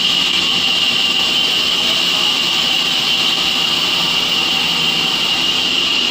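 A machine running steadily at constant speed: a loud, even rushing noise with a high whine that holds one pitch.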